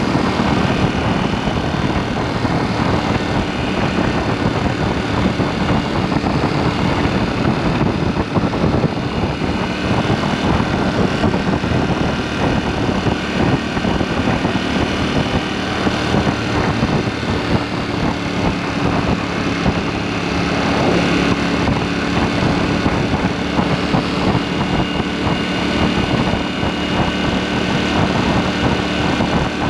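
KTM 790 Duke's parallel-twin engine running under way through an aftermarket SpeedPro Cobra SPX exhaust, its note holding fairly steady with small shifts in pitch, over wind and road noise.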